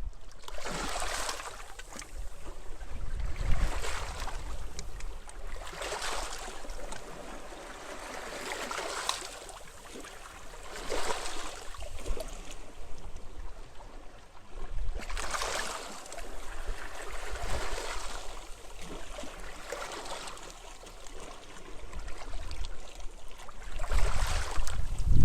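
Small sea waves washing onto a beach one after another, every two to three seconds, with wind rumbling on the microphone, the wind growing louder near the end.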